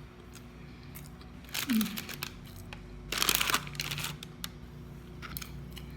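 Paper food packaging crinkling as it is handled, in two short bursts about one and a half and three seconds in, with a few light clicks between.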